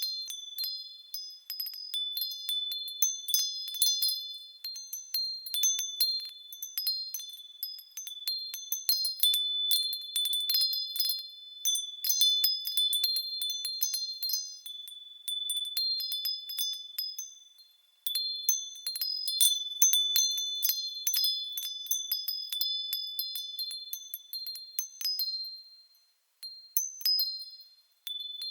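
Japanese furin wind chimes ringing in the breeze: quick, irregular strikes of high, bright tones that ring on and overlap. The ringing dies away twice, once a little past the halfway point and again near the end, before picking up again.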